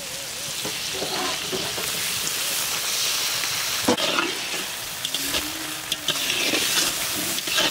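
Chopped onion, garlic, ginger and green chilli sizzling in oil in a large metal karahi, stirred with a metal spatula that scrapes and knocks against the pan several times, the first knock about four seconds in.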